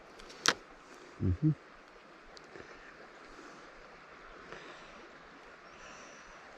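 Steady rush of river water over rock riffles. About half a second in comes one sharp click, then two dull low thumps close together about a second in.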